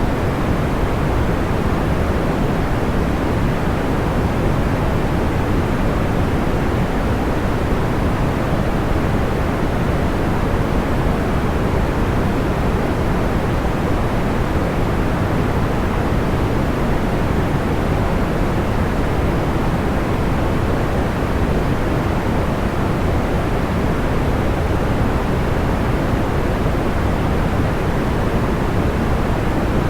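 Steady, soft white-noise sleep track: an even, deep hiss weighted toward the low and middle range, with no crackles or pops.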